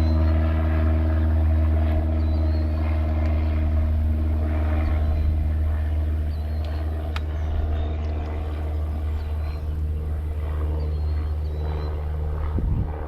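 Boat motor running steadily with a low, even hum; it eases near the end.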